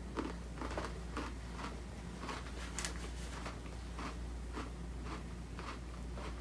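Someone chewing a crunchy Apple Cider Donut Oreo sandwich cookie with the mouth close to the microphone: crisp crunches at about two a second.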